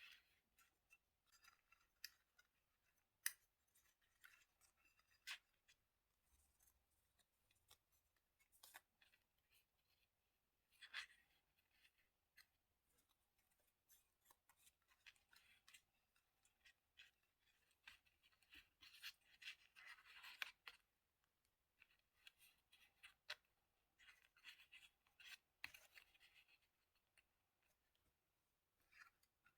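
Faint diary-decorating sounds: scissors snipping paper, with paper rustling and scattered small clicks and taps of tools on a desk. A single sharp click about three seconds in is the loudest.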